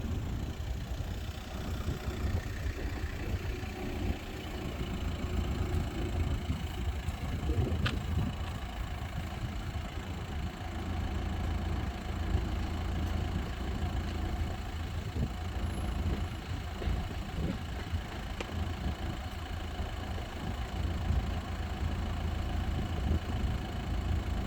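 Road vehicles idling in a steady low rumble, held at the closed level crossing.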